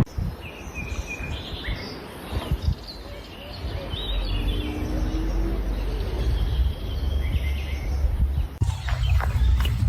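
Short, high chirping calls scattered over a low rumbling background, like birds chirping. Near the end the sound changes abruptly to louder low noise with sharp clicks.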